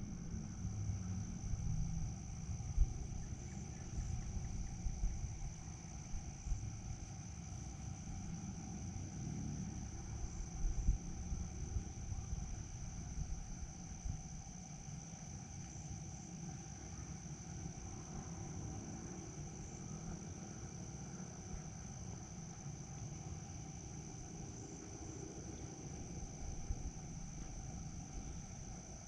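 Crickets chirring in one steady high, unbroken trill, over a low rumble with a few soft bumps.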